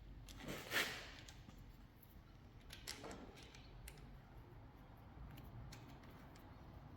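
Faint clicks and rustling of parts being handled, loudest a little under a second in with another small knock around three seconds, over quiet room tone.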